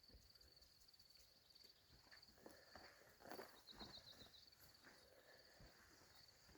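Near silence: faint, steady chirping of crickets, with a few soft rustles in the middle.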